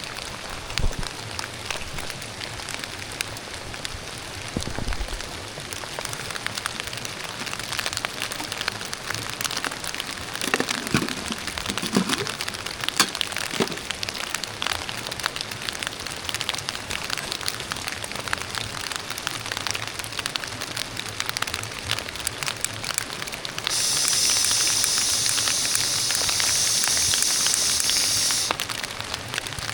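Steady rain falling, with dense ticks of raindrops and a few low handling thumps. Near the end, a loud steady hiss runs for about five seconds, then stops.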